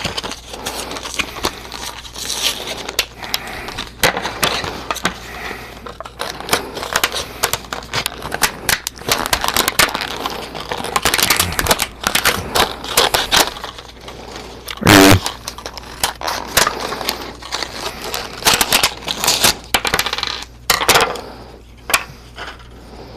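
Objects being handled and set down on a work surface: a busy run of irregular clicks, taps and short scrapes, with one louder clunk about fifteen seconds in.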